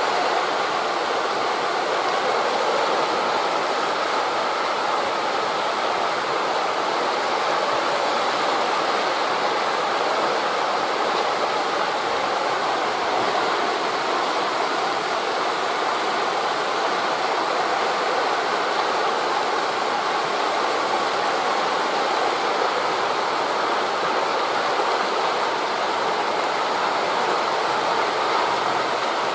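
Steady, even rushing of wind through forest leaves blended with distant surf, with no single wave crash standing out.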